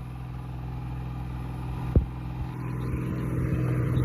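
New Holland 3630 tractor's diesel engine running under load, getting steadily louder, with one sharp knock about two seconds in.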